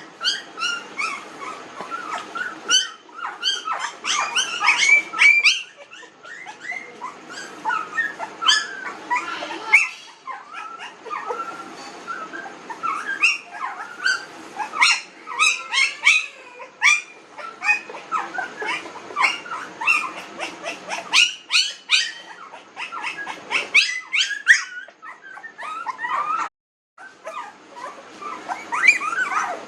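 Young Pomeranian puppies whimpering and squeaking: a busy overlapping run of short, high-pitched cries, with a brief break near the end.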